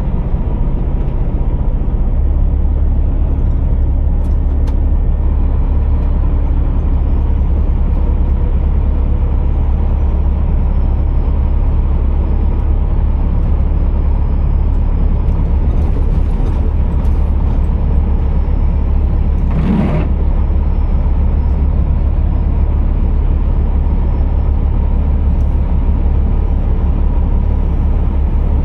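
Scania R480 truck's straight-six diesel engine running steadily with a deep low drone, with a single sharp click about twenty seconds in.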